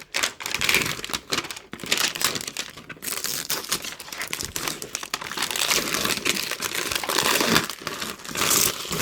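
Packaging wrapper being torn open and crinkled by hand, a continuous irregular crackling and rustling, going around a zip that would not open.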